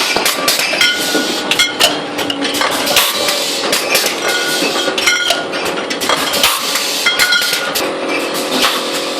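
Wine bottling line running: glass bottles clinking and machine parts clacking in quick, uneven succession. A steady motor hum comes in near the end.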